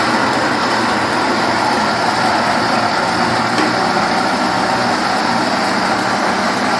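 Electric blender running steadily, grinding fresh corn kernels with a little water into a mash.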